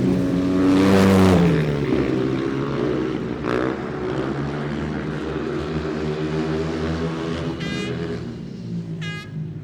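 Racing engines passing at speed, the engine note falling as each one goes by, with more engines running steadily behind. Short high revs near the end.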